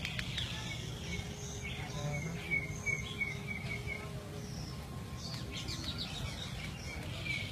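Birds chirping: runs of short, evenly spaced chirps with scattered higher twitters, over a steady low background hum.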